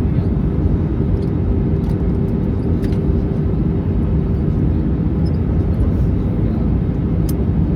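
Steady cabin noise inside an Airbus A321neo on descent: a low rumble of airflow and its Pratt & Whitney PW1100G geared turbofan engines, with a steady low hum.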